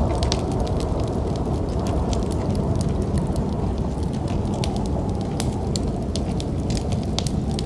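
Wood fire crackling in a fireplace, with frequent sharp pops and snaps over a steady low rumble of snowstorm wind.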